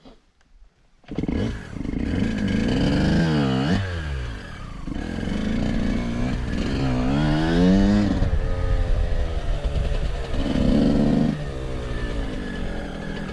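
Motorcycle engine starting about a second in, then running and being blipped, its pitch swinging down and up twice before settling.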